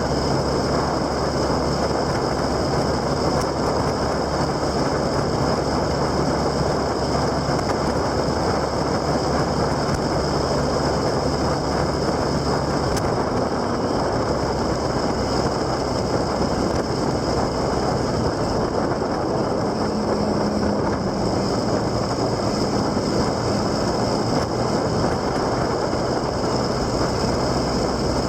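Motorcycle underway: steady engine running under a strong rush of wind and road noise, the engine note shifting slightly in pitch now and then.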